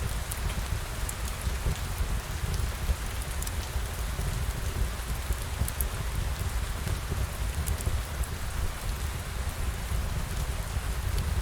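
Steady rain ambience: an even hiss of rainfall over a deep low rumble, with scattered sharp drop ticks.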